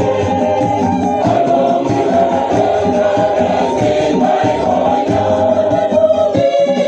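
A choir singing a hymn with a congregation, over a steady rhythm of shaken percussion.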